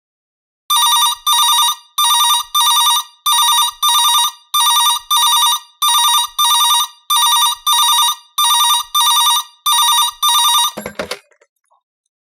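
A telephone ringing in double rings, eight pairs in a steady cadence. The ringing stops with a short clunk near the end.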